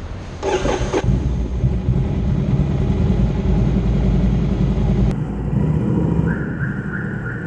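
Ducati Scrambler Icon's air-cooled 803 cc L-twin engine running with a low, throbbing rumble, with a short louder burst about half a second in.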